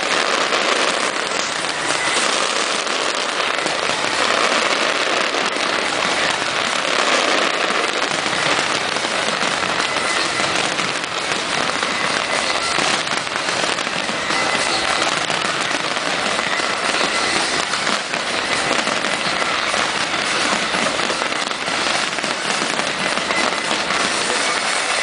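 Fireworks display crackling densely and continuously, a steady hiss of many small bursts with no single loud bang standing out.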